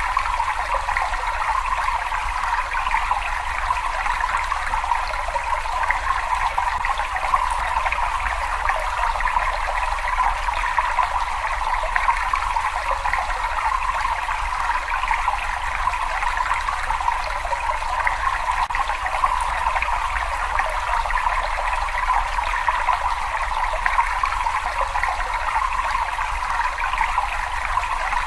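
Running water trickling and splashing in an unbroken, even stream, with a steady low rumble underneath.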